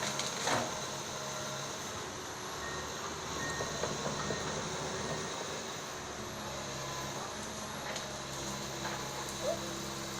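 Komatsu excavator's diesel engine running steadily under a hydraulic whine, with a short crack about half a second in.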